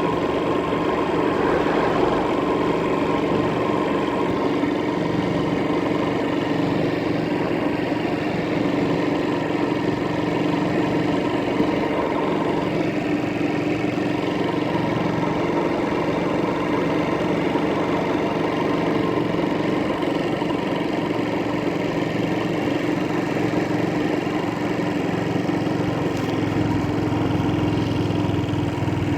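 An engine running steadily, a continuous even drone that holds the same pitch throughout.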